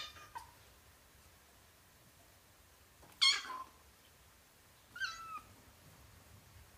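A kitten meowing: the tail of a short high meow right at the start, a louder meow about three seconds in, and a quieter one about five seconds in, each dropping in pitch at its end.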